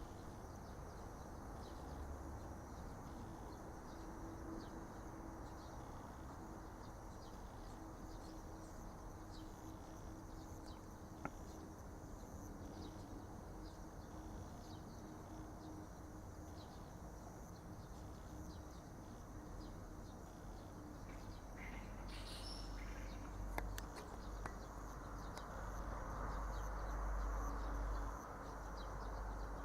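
Outdoor rice-paddy ambience: a steady high insect drone with scattered short bird chirps. A low rumble grows louder near the end.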